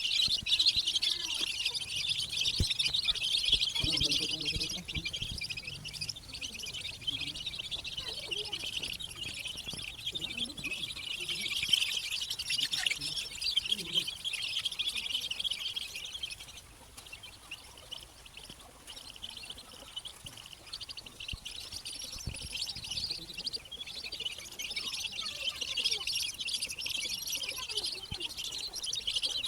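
A brood of baby chicks peeping continuously in a dense, high chorus, quieter for several seconds past the middle. Persistent loud peeping like this is the distress call of chilled chicks wanting warmth.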